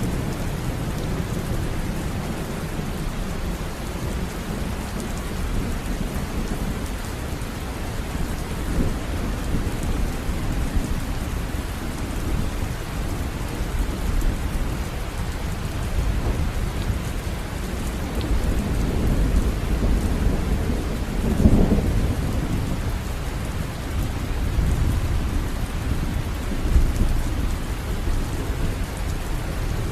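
River water running, a steady rushing noise heaviest in the low range, swelling briefly about two-thirds of the way through.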